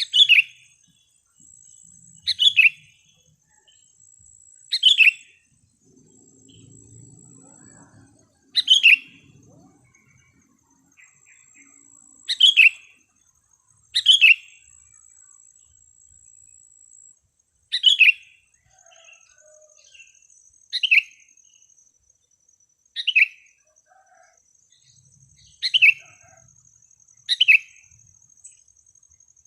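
Sooty-headed bulbul giving loud, short calls, one every two to three seconds, each a quick downward-sweeping note.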